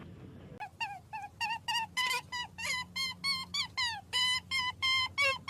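Rapid series of short, high-pitched animal calls, about four a second, many of them dipping in pitch.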